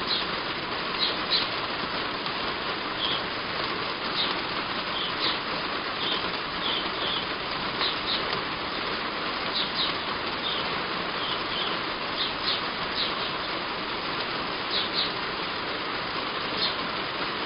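Heavy rain falling steadily on a roof, a constant hiss, with short high bird chirps every second or so.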